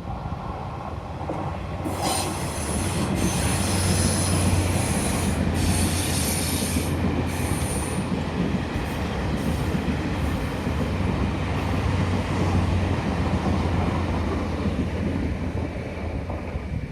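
Taiwan Railways DR3000 diesel multiple unit passing on a tight curve with a steady low rumble of engine and wheels. High wheel squeal comes in stretches from about two to eight seconds in.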